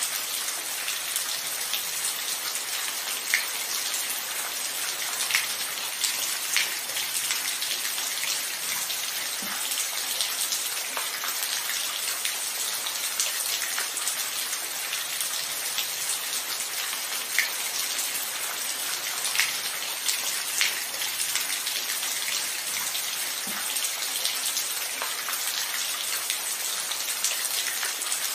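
Steady rain falling, a constant hiss with individual drops striking a hard surface close by, their sharp ticks scattered throughout.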